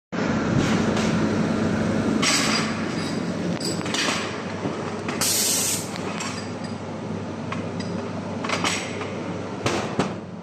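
2 kW water-cooled welding machine in use: a steady hum with short hissing bursts, the strongest about five seconds in, and a few sharp clicks near the end.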